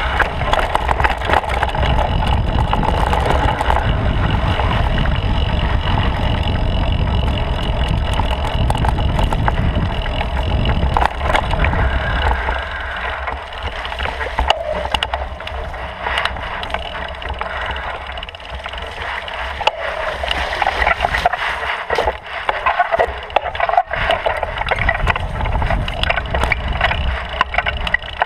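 Bicycle riding over a dirt trail, with tyres crunching and many sharp clicks and rattles coming up through the handlebar-mounted camera. A deep wind rumble on the microphone fills the first half and drops away about twelve seconds in.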